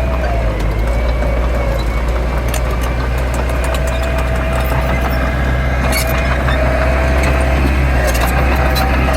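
Heavy diesel machinery engine running steadily, with a wavering high whine over the low drone and a few short clicks.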